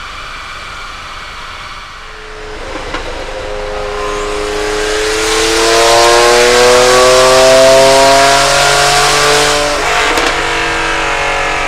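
Nissan X-Trail T31's 2.0 dCi four-cylinder turbodiesel accelerating hard, its pitch climbing steadily for about seven seconds with rising hiss. About ten seconds in it lets off with a couple of clicks and drops to a lower steady note.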